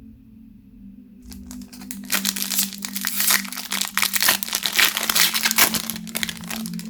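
Crinkly plastic packaging wrapper being handled and crumpled. The dense crackling starts about a second in, runs for about five seconds, and fades near the end, over a steady low ambient-music drone.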